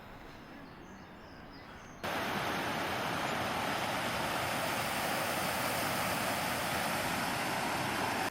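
Steady rushing of a valley stream's water, starting abruptly about two seconds in after faint outdoor ambience.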